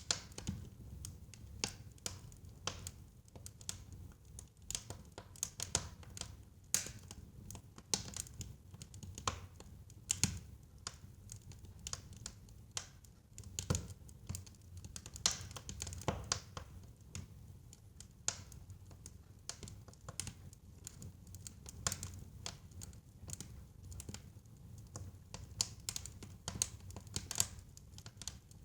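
Wood fire burning in a fireplace, crackling steadily with many irregular sharp pops and snaps over a low, soft rumble of the flames.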